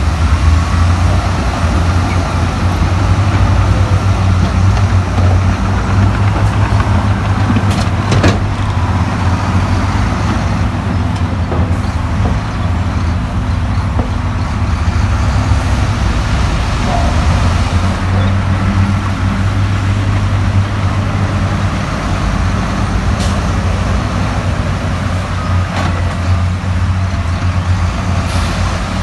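Heavy earthmoving diesel engine running steadily with a deep, even note, and a sharp metallic clank about eight seconds in.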